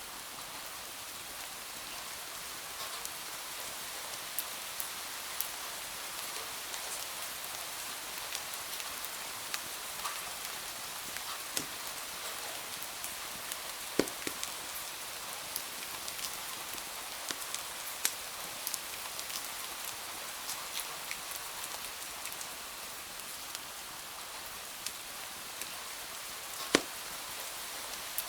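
Steady rain hiss mixed with a wood fire crackling in a fireplace: scattered sharp pops, two louder ones about halfway through and near the end.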